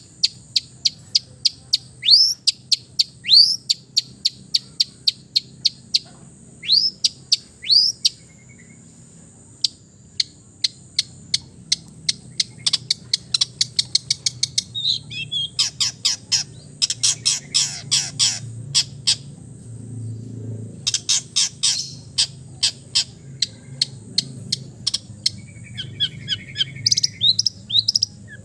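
Long-tailed shrike (cendet) singing in a busy, varied run: at first a series of sharp downward-sliding notes, then fast strings of ticking notes and rattling trills, delivered as a medley of mimicked calls.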